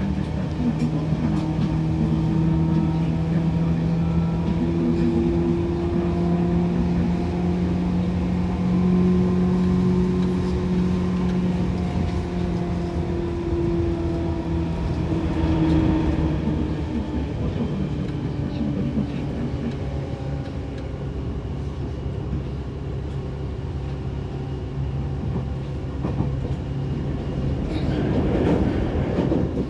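Seibu 2000 series electric train running along the line. A steady pitched hum drifts slowly in pitch over the rumble of the running gear and fades out about halfway through, leaving mostly the rumble. A louder rushing swell comes near the end.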